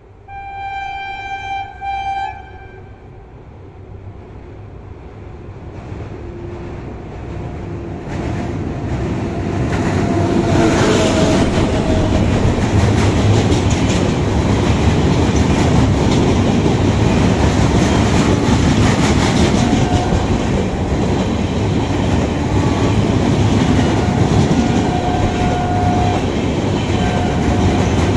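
A Shatabdi Express passenger train sounds two short horn blasts as it approaches. Its rumble then swells, and the coaches clatter past at speed with a steady loud rush of wheels on rail as they roll onto a steel truss bridge.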